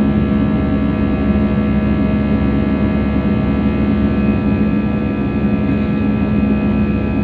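Steady drone inside an airliner cabin in flight: engine and airflow rumble with a constant low hum and several fixed tones above it.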